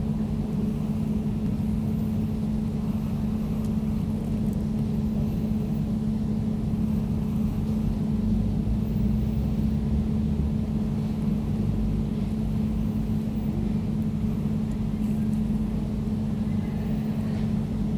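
Air conditioner running steadily: a constant low hum with an even drone that does not change.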